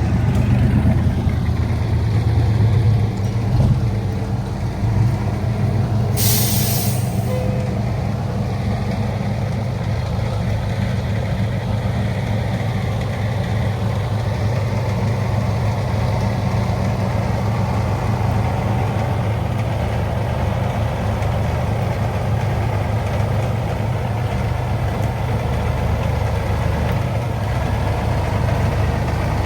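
Heavy old truck's engine running steadily. About six seconds in there is a short, sharp hiss of air released from the air brakes.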